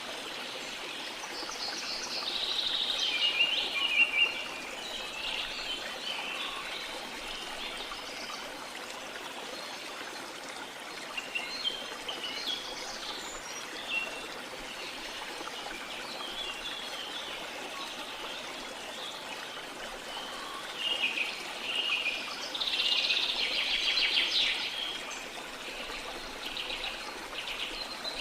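Steady rush of a flowing river, with birds chirping and calling over it in clusters, loudest about 2 to 5 seconds in and again about 21 to 25 seconds in.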